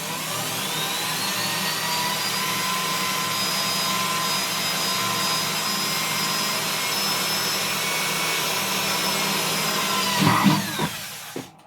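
Electric drill spinning up, running steadily for about ten seconds while drilling a headlight hole, then winding down and stopping near the end, with a short louder noise as it slows.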